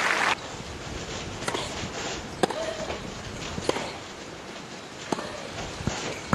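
Applause cut off sharply just after the start, then open-air court noise with a run of sharp tennis ball impacts, racket strikes and bounces, about a second apart.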